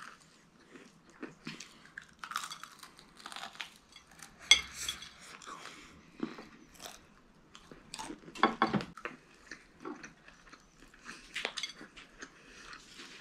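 Biting into and chewing crispy fried chicken, with irregular crunches of the coating and a few sharper clicks, the loudest about four and a half seconds in and again near eight and a half.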